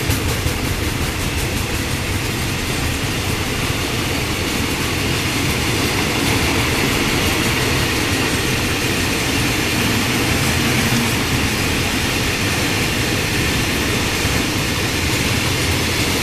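Container freight wagons rolling past on the rails, a steady loud rumble of wheels on track.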